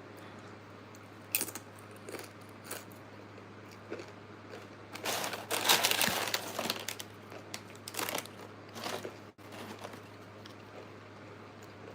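Close-up crunching and crinkling of fast food and its wrapping being handled and eaten. There are a few sharp crackles first, then a dense burst of crinkling and crunching about five to seven seconds in, and a shorter one near nine seconds.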